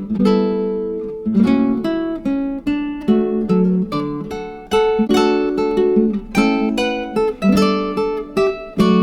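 Acoustic guitar music: a steady run of plucked notes and strummed chords, each struck crisply and then fading.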